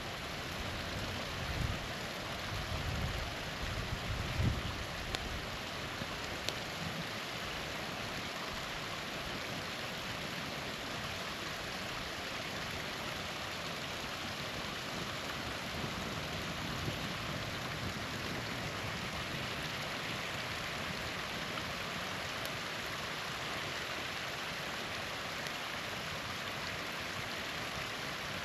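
Small waterfall rushing steadily, a constant hiss of falling water. Low rumbles come through in the first five seconds, with a couple of faint ticks a little later.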